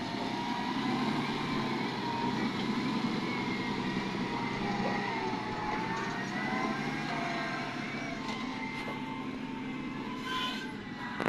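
Heavy diesel vehicle engine running steadily under load, with a high whine that wavers up and down in pitch. A short louder clatter comes near the end.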